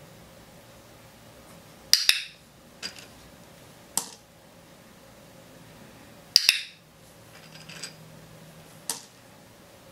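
A training clicker clicked twice, about four seconds apart, each a sharp double click. Fainter taps and clinks of small objects on a tabletop come between them.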